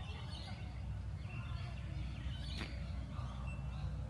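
Outdoor garden ambience: small birds chirping now and then over a steady low rumble, with one sharp click about two and a half seconds in.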